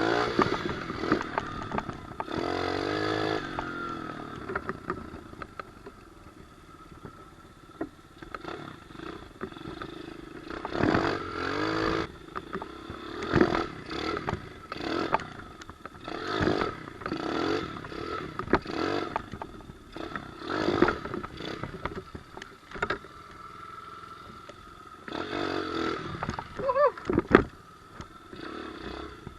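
Pit bike engine running and revving, its pitch rising and falling, with repeated clattering knocks.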